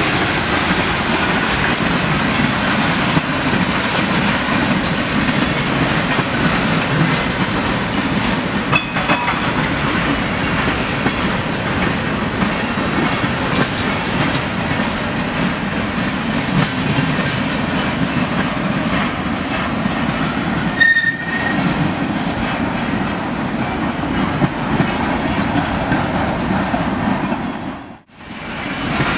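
Freight cars rolling past on the rails, a steady rumble with clickety-clack from the wheels over rail joints. A brief high wheel squeal comes about two-thirds of the way through. The sound drops out for a moment near the end.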